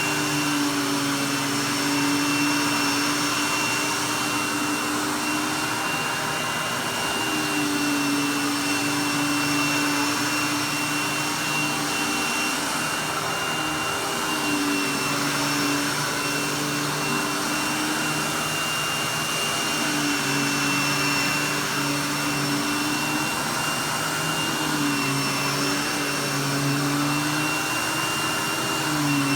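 Vacuum cleaner running steadily on carpet with a high whine. Its low hum shifts slightly about every five or six seconds as it is pushed through slow strokes.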